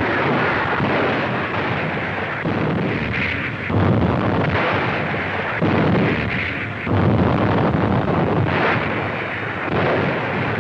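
Battle sound on an old newsreel sound track: a continuous din of artillery fire and explosions, with several heavier blasts standing out through the middle and near the end.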